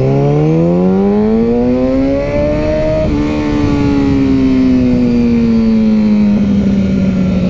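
Sport motorcycle engine pulling hard, its revs climbing for about three seconds, then dropping sharply at an upshift and slowly winding down as the rider eases off, with wind rushing past.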